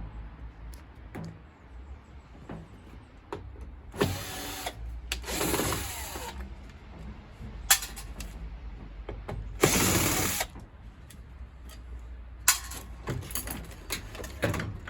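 Power drill-driver run in three short bursts, backing out fasteners while a boiler is dismantled. Sharp clicks and knocks of metal parts come between the bursts.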